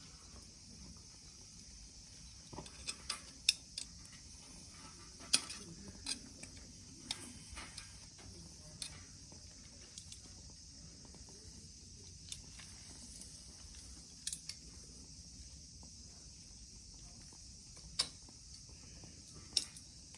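Turban shells heating on a small wire grill over a solid-fuel fire: faint, irregular ticks and pops over a steady high hiss.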